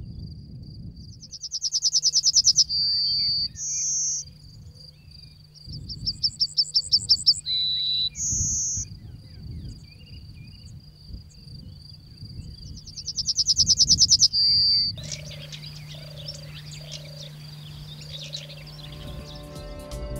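Meadow wildlife: a steady high insect trill under a loud bird song repeated three times, each phrase a quickening run of notes ending in two clear held whistles. About fifteen seconds in it changes to a busier chorus of high bird chirps with a few short, low, falling calls.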